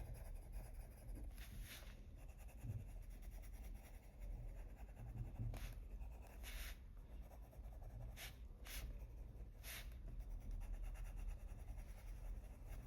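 Faint scratching of a coloured pencil on paper, laid on in light, small circular strokes, with a few brief louder strokes here and there.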